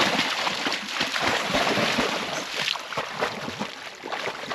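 A blue lacy dog wading and splashing through water, with sloshing and irregular splashes.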